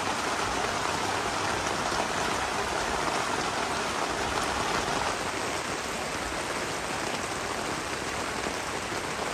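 Steady rain falling, an even dense hiss with no break.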